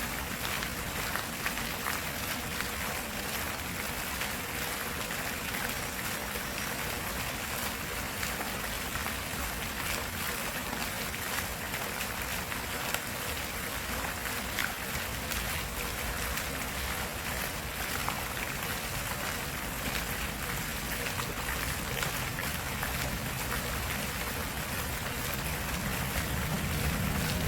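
Stream water flowing in a steady, continuous rush. A low rumble rises near the end.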